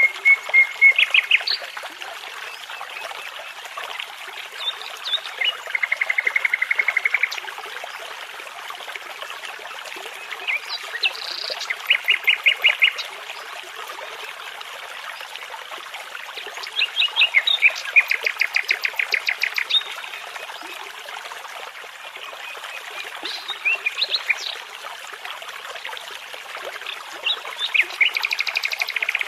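Nightingale song in separate phrases of fast repeated notes and trills, coming every few seconds. Beneath it runs the steady rush of a babbling brook.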